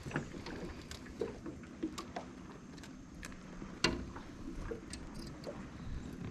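Faint scattered clicks and taps, with one sharper knock about four seconds in, over a low background rumble, the kind of small handling noise of fishing gear and a small boat.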